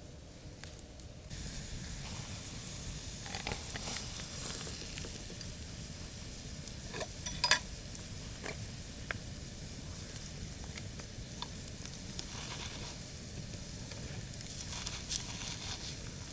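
Persian kabab meat sizzling over a campfire, with scattered pops and crackles. The sizzle grows louder about a second in, and the sharpest pop comes about halfway through.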